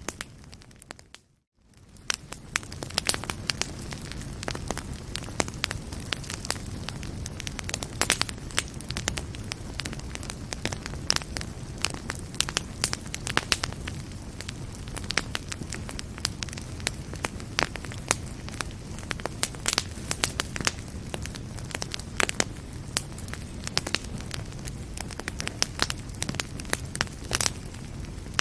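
Wood fire in a fireplace crackling, with frequent sharp pops over a steady low rumble of the flames. The sound dips briefly to near silence about a second in, then fades back up.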